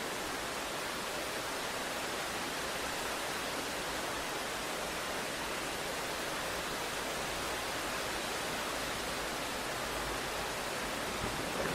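Steady, even hiss of heavy rain. A low rumble of thunder begins right at the end.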